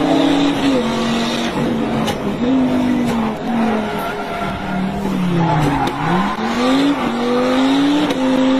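Rally car at speed, its engine revving high and then dropping back again and again as it changes gear, with a dip and a quick climb just before six seconds in. Tyre noise runs underneath throughout.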